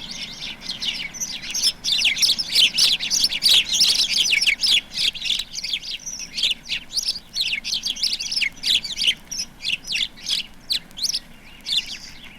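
A group of male house sparrows chirping loudly together in their communal courtship display around a female: many quick, overlapping chirps, thickest in the first half and thinning out towards the end.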